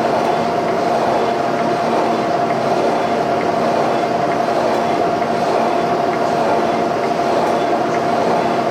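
Portable line boring machine turning a long boring bar, the cutter taking a steady cut through worn, egg-shaped steel pivot bores in a trailer suspension frame. The noise is steady, with a constant whine running through it.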